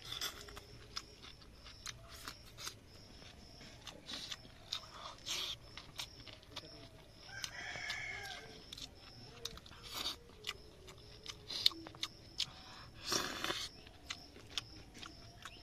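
Close-up eating sounds of noodles being chewed and picked up with chopsticks: short clicks and crunches throughout, with a louder crunch near the end. A rooster crows once, about halfway through.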